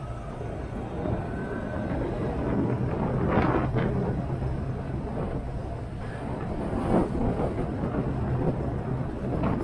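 Motorcycle engine running under way at steady speed, with rushing wind on the microphone and gusts about three and a half seconds in, about seven seconds in, and near the end.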